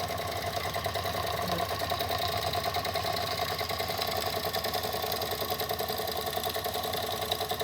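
Two Jensen #70 toy live steam engines running together at low speed, giving a quick, even rhythmic beat.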